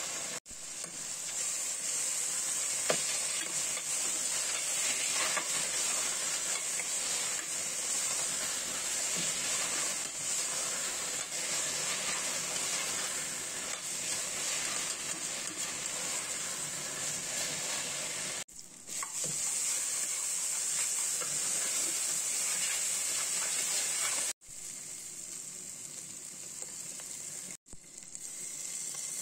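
Chopped onions, tomatoes and chillies sizzling steadily as they fry in oil in a stainless steel pot, stirred with a metal spoon. The sizzle breaks off abruptly a few times.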